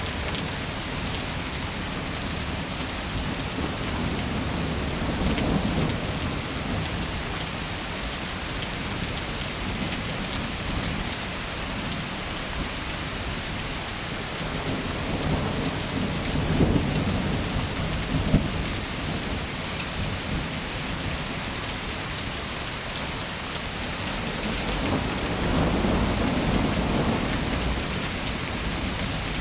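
Steady heavy rain, with low rumbles of thunder swelling up three times.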